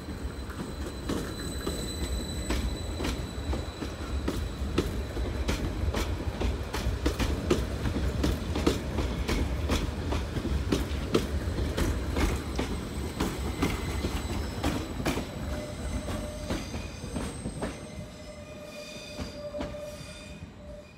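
Greater Anglia Class 755 multiple unit pulling out past the platform at low speed: a steady low rumble with a quick run of wheel clicks over the rail joints and a thin high squeal. Near the end it fades as it draws away, leaving a few steady whining tones.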